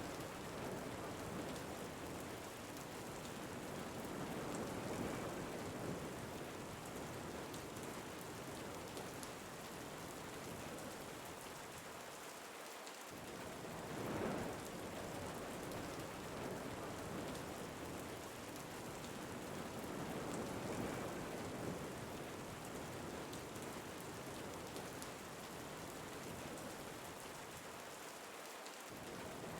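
Steady rain falling with wind, a continuous hiss that swells briefly about every fifteen seconds.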